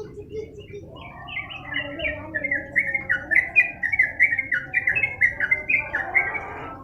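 Yellow-vented bulbul (trucukan) singing a long, fast run of short chattering notes, about four a second, starting about a second in and loudest in the middle.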